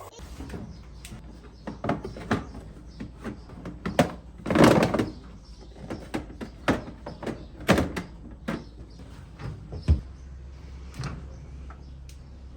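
A series of irregular knocks and clunks from household objects being handled and set down, with a longer, louder scraping clatter about four and a half seconds in.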